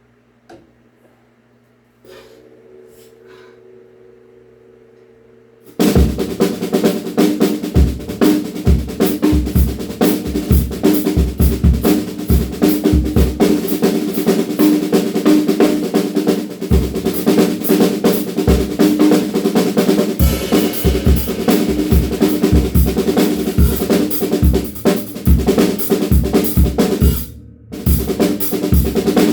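DW Frequent Flyer drum kit played as a loud groove of bass drum kicks and snare hits, starting about six seconds in. It is preceded by a faint tap and a low ringing drum tone, and the playing breaks off briefly near the end.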